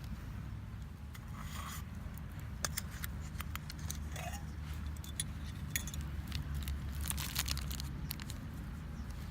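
Scattered light metallic clinks and scrapes of cookware being handled, such as a utensil against a metal canteen cup, heard as irregular sharp clicks over a steady low rumble.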